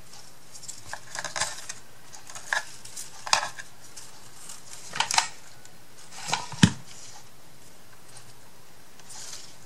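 Light taps and clicks of small craft pieces, chipboard and paper, being handled and set down on a hard work surface. There are about eight scattered taps, the sharpest about two-thirds of the way through.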